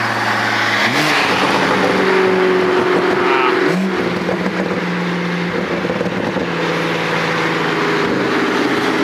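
Big-turbo BMW M240's engine running at steady revs, with the revs stepping quickly up to a new steady pitch twice: about a second in and near four seconds.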